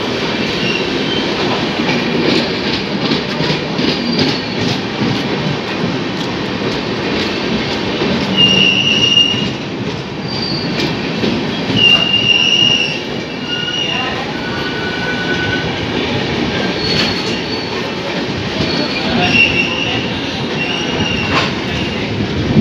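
Indian Railways Durgiana Express passenger coaches rolling past close by, wheels clicking over rail joints. Brief high-pitched wheel squeals come in several times, about a third of the way in, around the middle and again near the end.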